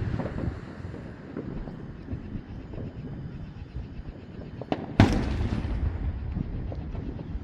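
Aerial fireworks bursting at a distance: scattered faint pops, then one loud boom about five seconds in that rolls on in a low rumbling echo.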